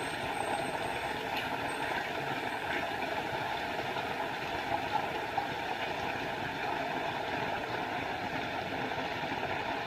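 Small forest waterfall: a steady, even rush of falling water.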